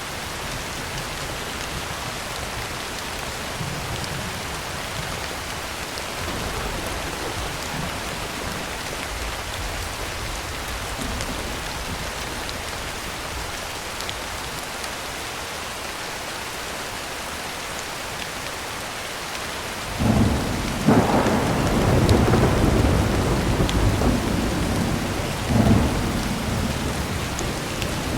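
Heavy rain falling steadily on a tin roof. About two-thirds of the way through a clap of thunder breaks suddenly and rumbles loudly for several seconds before fading back under the rain.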